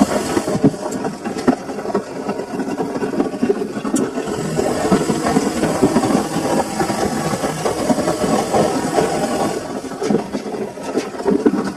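Samsung washing machine running a wash, the drum turning with a continuous uneven rattling clatter.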